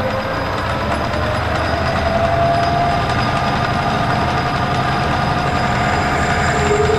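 Metal lathe running while a 1/2-inch drill cuts into the turning bushing blank: a steady machine noise with a cutting whine that drifts slowly up in pitch.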